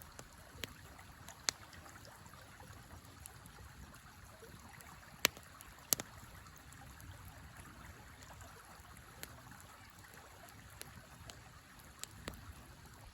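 A river flowing steadily alongside a campfire in a fire pit, the fire giving a few sharp crackles and pops, the loudest two about five and six seconds in.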